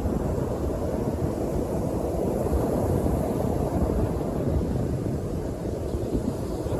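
North Sea surf with wind buffeting the microphone: a steady low rumble.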